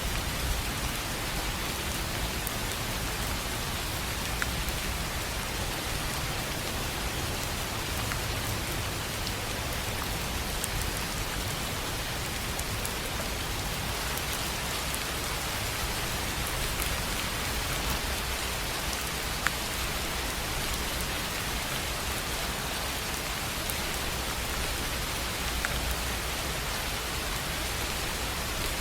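Steady rain on a tin roof: an even hiss with scattered sharp drop ticks and a low rumble underneath.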